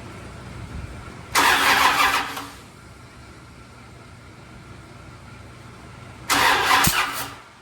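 Starter motor cranking a Mopar 440 big-block twice in short bursts of about a second each, without the engine firing: bumping it round to find top dead centre on number one cylinder.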